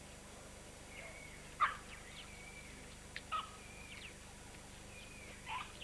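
Birds calling: short whistled notes with three louder, sharp calls that sweep downward in pitch, about one and a half, three and a third, and five and a half seconds in.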